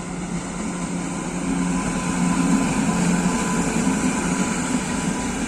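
Train running, a steady loud rumble with a low hum that wavers in pitch.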